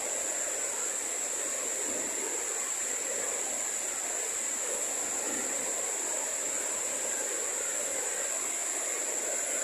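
Waterfall rushing: a large volume of water falling and churning in a steady, unbroken roar, with a steady thin high tone above it.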